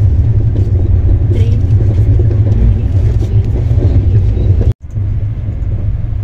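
Passenger train running at speed: a loud, steady low rumble of the coach and its wheels on the track. A little over three-quarters of the way through, the sound cuts out for an instant and resumes slightly quieter.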